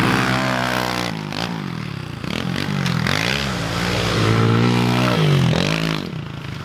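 Pit bike engine revving up and down as it is ridden around a dirt track, the pitch rising and falling several times through the throttle changes.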